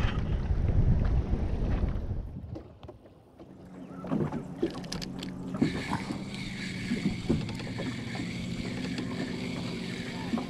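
Wind buffeting the microphone in a low rumble, dying away after about two seconds. After that come scattered knocks over a quieter steady hum.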